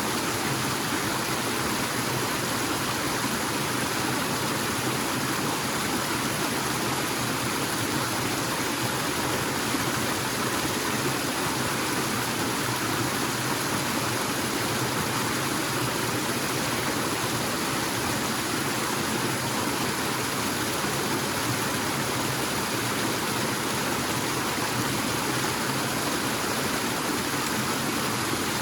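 Small forest waterfall and stream: water falling and rushing in a steady, unbroken wash.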